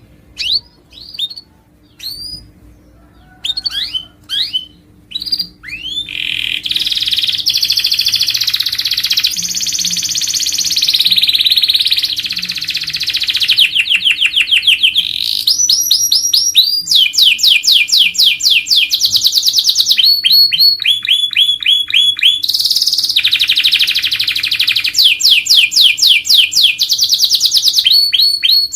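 Domestic canary singing: a few separate chirps over the first several seconds, then continuous loud song of rolling trills and fast runs of repeated notes.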